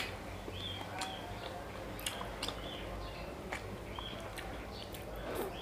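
Chewing a chocolate-coated ice-cream bar, with soft mouth clicks and smacks scattered throughout.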